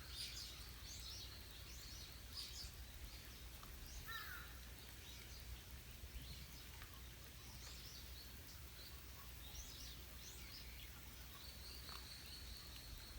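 Wild birds chirping outdoors: many short high chirps throughout, with a lower falling call about four seconds in.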